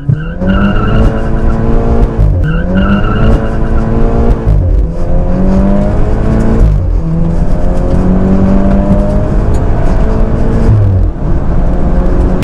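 Volkswagen hatchback's engine at full throttle on a drag-strip run, heard from inside the cabin: the revs climb steadily through each gear and fall back at every upshift. A brief high squeal comes twice in the first few seconds.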